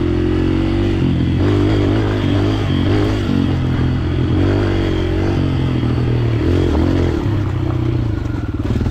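125cc four-stroke dirt bike engine running under throttle, its revs rising and falling again and again as the rider builds speed. The engine note turns ragged near the end.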